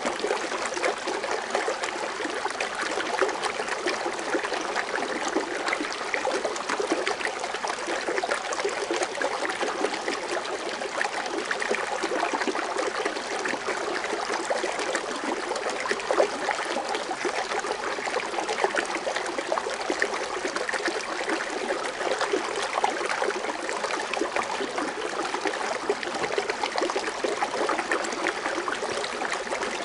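Foaming water fountain splashing and trickling steadily, a dense, even patter of small splashes that does not change.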